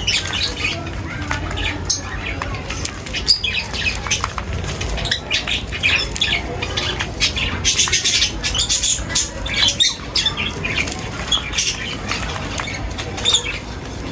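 A group of birds chirping and squawking in many short, overlapping calls, over a low, steady rumble.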